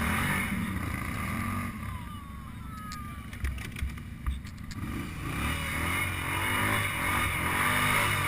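ATV engine revving up and down under load. It eases off in the middle, with a few sharp knocks, then revs up again.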